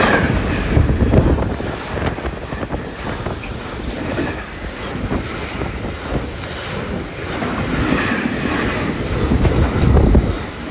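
A train passing through the station at speed: a loud rumble with heavy wind buffeting on the microphone, swelling about a second in and again near the end.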